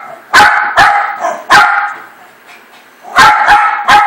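Dog barking, repeated sharp barks. Three come in the first second and a half, then a pause of about a second and a half, then another quick run of three near the end.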